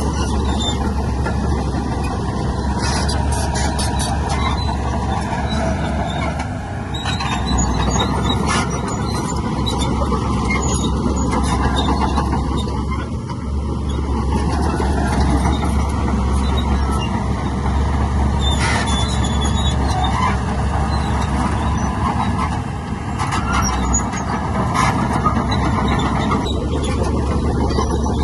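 Heavy diesel earthmoving machinery running steadily under load, with scattered sharp metallic squeals and clanks.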